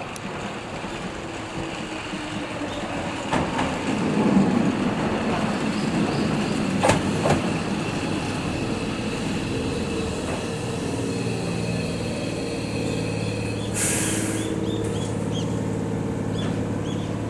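Nose Electric Railway 7200 series train pulling into the station, wheels rumbling and clicking over the rail joints as it slows. Then the steady hum of the halted train, with a short burst of air hiss about fourteen seconds in.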